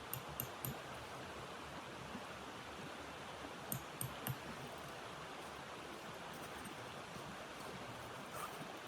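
Steady hiss of noise with a few short knocks, in a quick cluster just after the start and another about four seconds in.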